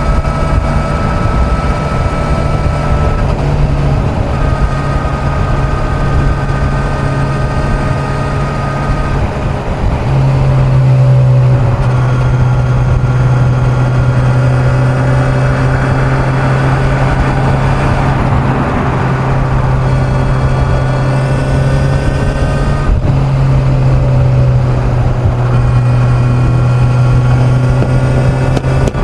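Kawasaki Z900's inline-four engine running at highway speed, with steady wind and road noise. The engine note gets louder about ten seconds in as the throttle opens and stays up, with small shifts in pitch along the way.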